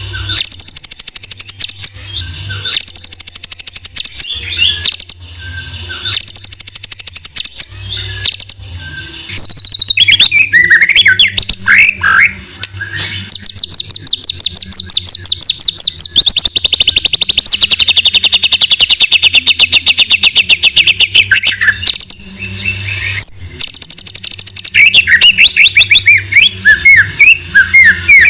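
White-rumped shama (murai batu) singing. Loud whistled phrases repeat about every two seconds, giving way to a rapid trill held for about nine seconds in the middle, then quick varied phrases.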